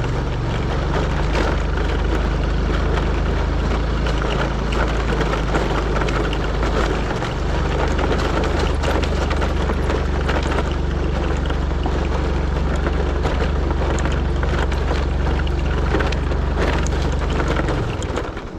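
Vehicle engine running steadily with road noise, and frequent knocks and rattles from travelling over a rough, unpaved track.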